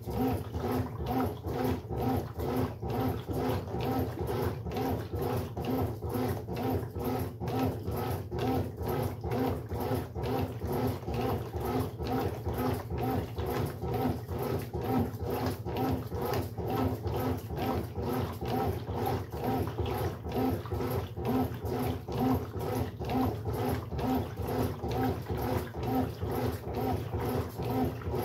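Brastemp Sexto Sentido 8 kg washing machine running its wash agitation: a steady motor hum with a rhythmic pulse about twice a second.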